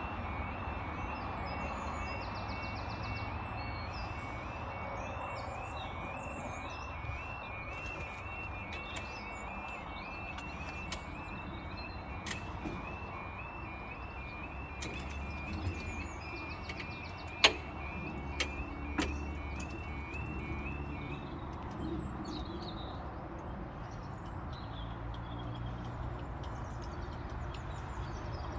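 Level crossing alarm sounding a quiet, repeating two-tone warble while the barriers come down for an approaching train, stopping about three quarters of the way through. A few sharp knocks are heard shortly before it stops, over traffic rumble and birdsong.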